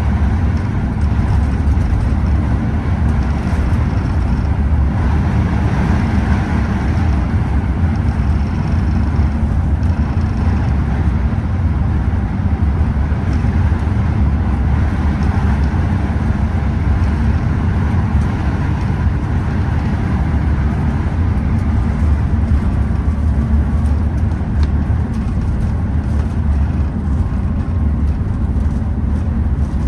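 Scania OmniExpress express coach running steadily on the road: a constant low rumble of engine and road noise with no marked changes.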